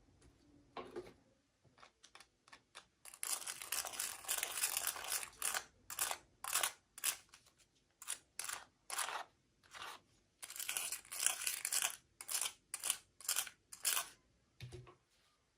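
Doll packaging being handled and opened: repeated crinkling and tearing, a dense rustle about three seconds in, then a string of separate crinkles, with a soft low knock near the end.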